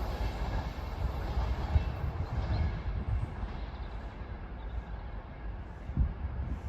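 A train running along the track, its rumbling noise dying away over the first few seconds.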